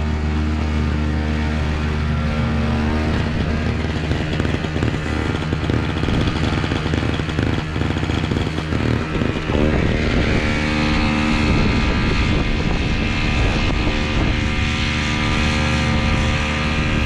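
MTD snow blower's small engine running, steady for about three seconds and then wavering in pitch and tone as it works through wet snow, with a rushing hiss added from about ten seconds in.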